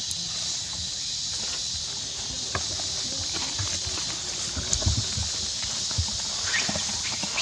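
Scattered soft knocks and taps over a steady high hiss, with a brief rising squeak near the end.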